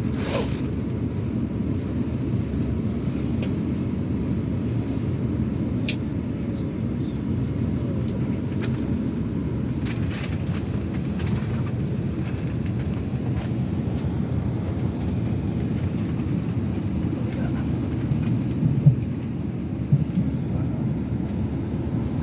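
Steady low rumble inside a South Western Railway electric passenger train, with a sharp click about six seconds in and two short knocks near the end.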